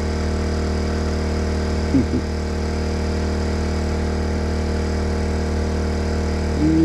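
Portable generator running steadily outside the tent, a constant engine hum. A short vocal sound comes about two seconds in, and a held hum of the voice near the end.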